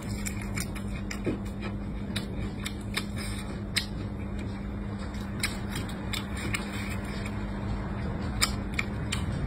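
Close-miked chewing of a mouthful of rice and shrimp, heard as irregular sharp clicks and crunches, over a steady low hum.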